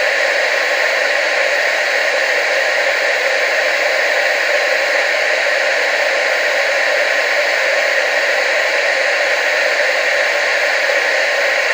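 Steady hiss of analogue TV static, loudest in the upper-middle range with almost no bass, unchanging throughout.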